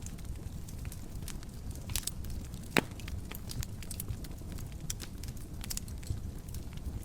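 Wood fire burning in a fireplace: a low steady rumble of flames with frequent small crackles and one loud sharp pop a little under three seconds in.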